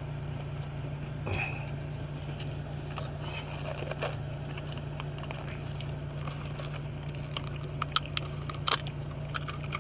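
Car engine idling with a steady low hum, heard inside the cabin, under light crackles and clicks of a paper food box of crispy fried chicken strips and a plastic sauce cup being handled, with a couple of sharper clicks near the end.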